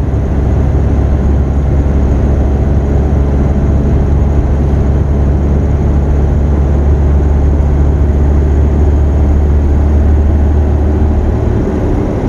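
Ford Ranger's diesel engine running under way, heard from inside the cab, a steady low drone that drops in pitch near the end. The engine is still cold, its cold start knob pulled out.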